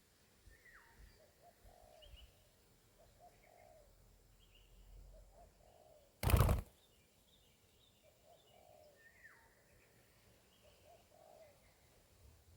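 Spotted dove cooing softly in a low call repeated about once a second, with other small birds chirping and whistling. A brief loud burst of noise comes about six seconds in.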